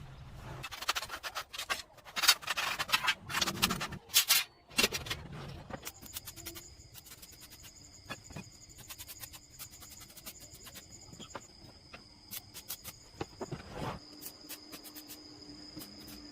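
Hard scraping and rubbing on a hard surface, loudest in the first five seconds. It is followed by a run of light clicks over a faint, steady high whine.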